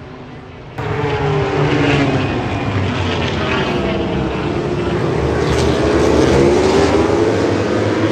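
Racing motorcycle engine at high revs, starting abruptly about a second in: its pitch drops as the bike slows, then climbs again as it accelerates.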